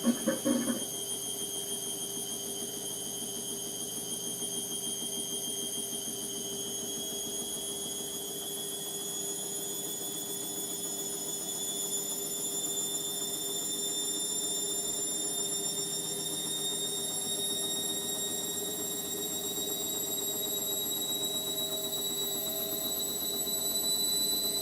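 Indesit MTWC71252WUK washing machine's motor whining steadily, its pitch rising slowly as the drum speeds up in a spin, over a lower steady hum. A few short knocks come in the first second.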